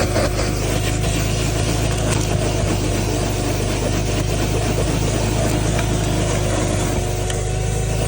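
RIDGID wet/dry shop vacuum running steadily while vacuuming a car interior: an even rushing of air with a constant motor whine.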